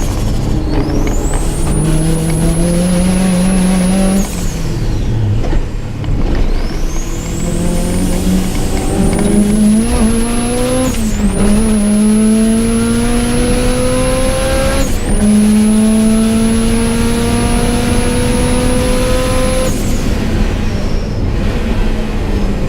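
Subaru Impreza GC8's flat-four engine pulling hard under full throttle, its pitch climbing on each run and dropping sharply at each upshift, about four times, with a high whine rising and holding over each pull. The engine eases off near the end.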